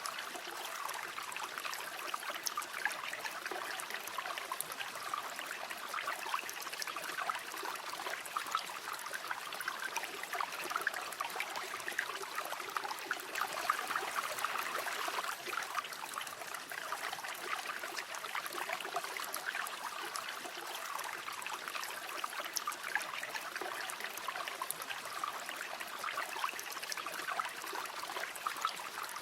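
A small river or stream flowing steadily, water trickling and splashing over stones, with a light bubbling texture and little low rumble.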